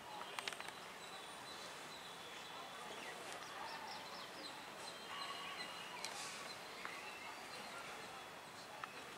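Faint outdoor ambience with small birds chirping, and a few sharp clicks about half a second in.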